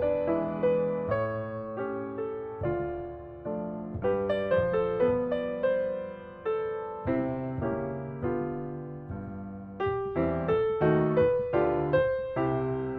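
Background piano music: individual notes and chords with sharp attacks that fade away.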